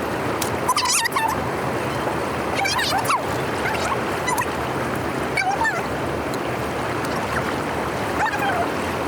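Water rushing steadily through a drain outlet, with short chirping calls every second or two.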